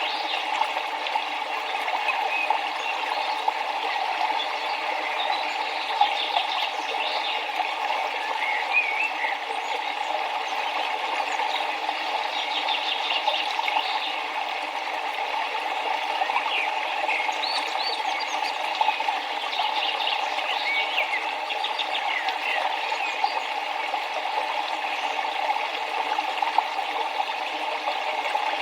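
Steady rushing of a flowing river, with small birds chirping now and then over it.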